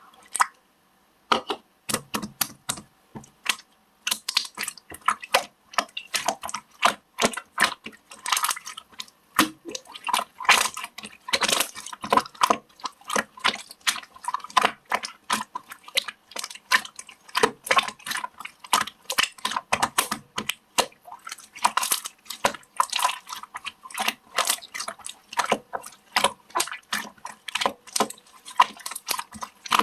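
Hands squishing and poking toy slime: a dense, irregular run of small sticky clicks and pops, starting about a second in.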